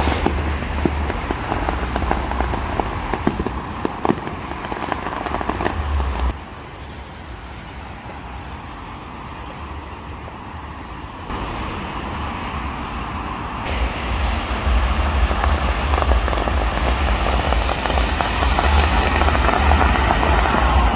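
Fireworks popping and crackling, scattered sharp cracks over a steady outdoor noise with a low rumble. The noise drops suddenly about six seconds in, then builds back up to a steady wash.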